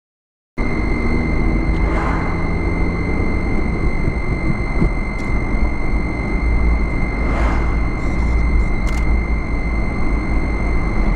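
Vehicle on the move: steady low rumble of engine and road noise, cutting in suddenly about half a second in, with two brief swells of louder noise along the way.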